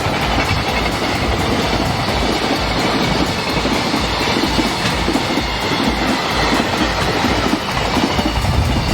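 Freight train wagons rolling past with a steady rumble and clickety-clack of wheels over rail joints, overlaid by strong wind buffeting the microphone.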